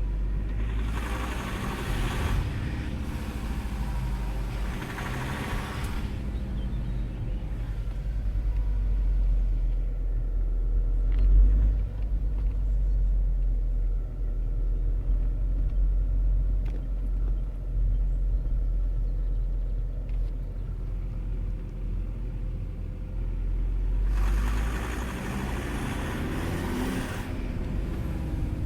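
Alfa Romeo 156 2.4 JTD five-cylinder turbodiesel engine running with a rattle ("Motor klappert"), a steady low rumble with louder, hissier stretches near the start and near the end.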